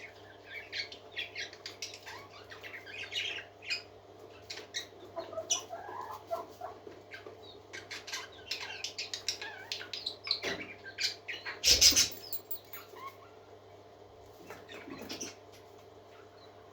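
A group of parakeets chirping and twittering in many short, scattered calls, with one brief loud burst about twelve seconds in.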